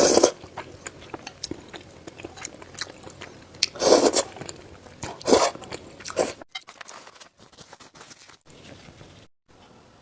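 Close-miked eating: loud crunchy bites into food, at the start, about four seconds in and about five seconds in, with small chewing clicks between them, then quieter chewing in the last few seconds.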